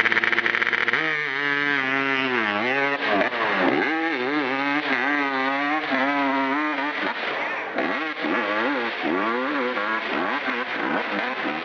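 Dirt bike engine revving hard, its pitch repeatedly rising and falling as the throttle is worked and opened again; after about seven seconds it gets a little quieter and less even.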